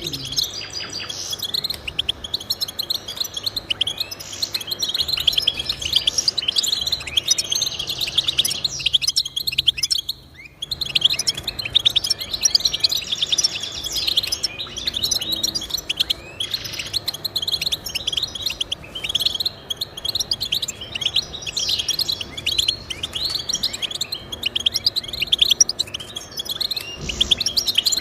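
Small finches singing: a continuous stream of rapid, high twittering chirps and trills. It drops out briefly about nine seconds in, then resumes.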